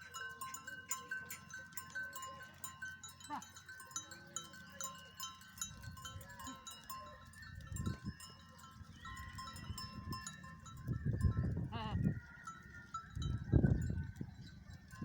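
Livestock bleating, with small bells ringing and clinking throughout. A wavering call comes near the end, and low rumbles surge several times in the second half.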